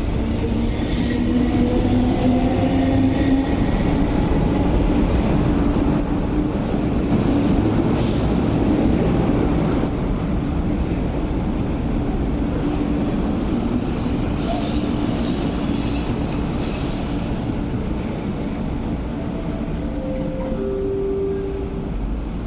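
MTR East Rail Line electric multiple unit pulling out along the platform: wheels rumbling on the rails, with a motor whine rising in pitch over the first few seconds. The sound eases off as the train moves away.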